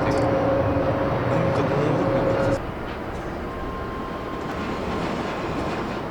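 Airliner jet engines on a landing approach: a steady rumble with a steady whine that cuts off suddenly about two and a half seconds in, leaving a quieter, even hiss.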